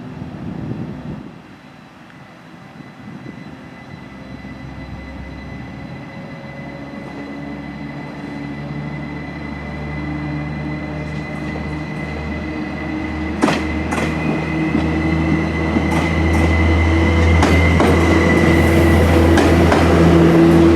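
Stadler diesel multiple unit approaching and growing steadily louder, its diesel engines running with a steady high whine. From about two-thirds of the way through, wheels clack over rail joints or switches.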